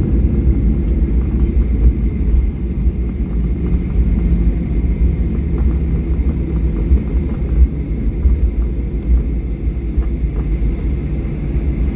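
A landing airliner's engines: a loud, steady low rumble.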